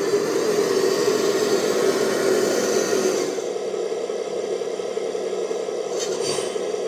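The sound unit of a 1/14 scale Scania G540 XT RC dump truck playing a diesel engine running steadily, with a higher whirring hiss over it that cuts off about three seconds in.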